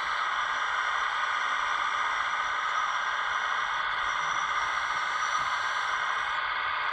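Steady, even whine of a scale RC model's electric hydraulic pump running, a high hiss with several fixed tones and no change in pitch.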